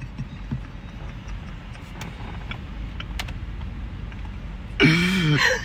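Low steady hum of a car's idling engine heard inside the cabin, with a few faint clicks. Near the end, loud laughter bursts out.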